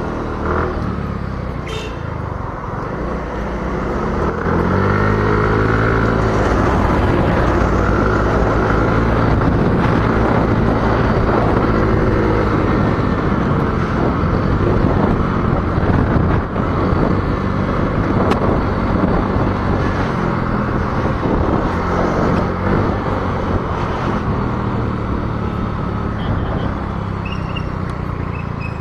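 Small motorcycle's engine pulling away and speeding up, its pitch and loudness climbing a few seconds in, then running steadily at road speed.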